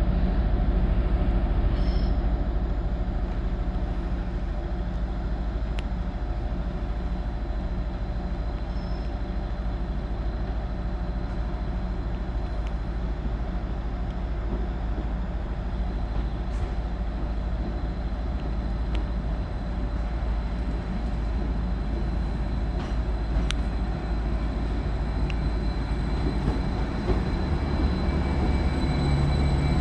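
Class 755 bi-mode multiple unit running at a standstill on its diesel engines: a steady low hum with a faint high whine. The low hum grows stronger near the end.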